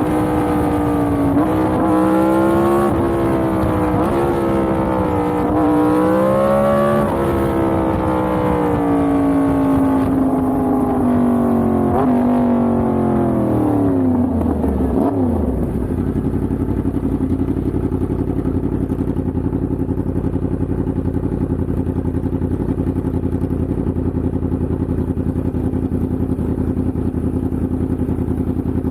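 Yamaha MT-10's crossplane inline-four engine under way, its pitch rising and falling with the throttle, then winding down as the bike slows. About halfway through it settles into a steady idle.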